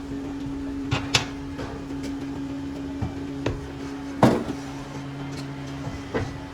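Steady machine hum in a workshop, broken by irregular sharp knocks, the loudest just after four seconds in.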